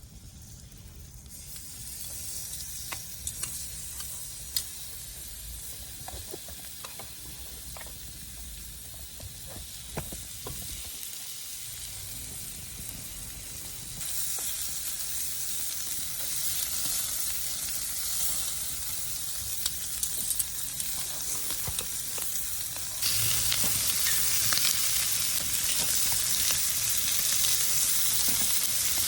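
Food frying in a pan, a steady sizzle with scattered clicks and taps. The sizzle gets louder in steps, about halfway through and again near the end.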